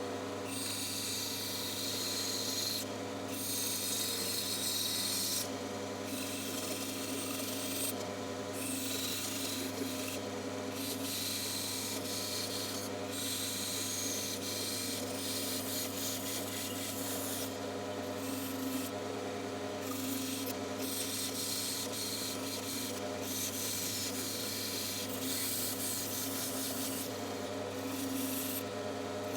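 Bandsaw running with a steady hum while its blade cuts through wood. The cutting hiss breaks off briefly every few seconds as the workpiece is fed and turned.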